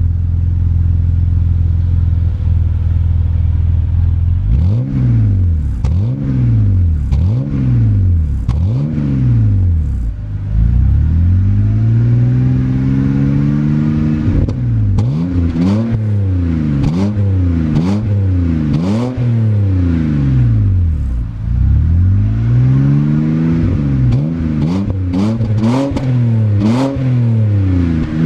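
BMW E60 528i straight-six through an aftermarket performance exhaust, idling steadily for a few seconds and then revved over and over: a run of short throttle blips, a few longer revs rising and falling, and quick blips in rapid succession near the end.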